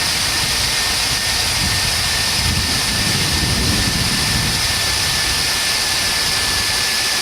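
The 2003 Chevrolet K3500's 6.0-litre V8 engine running steadily, with a constant high whine over the engine sound and a swell in the low rumble a few seconds in.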